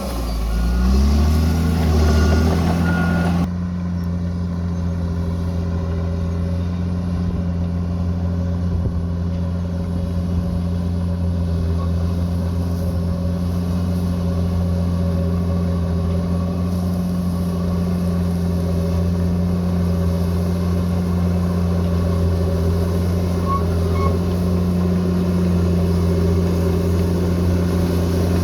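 Diesel engine of a bulldozer working. For the first few seconds it revs up and down, with a short run of reversing beeps. Then, after a sudden change, it holds a steady low drone.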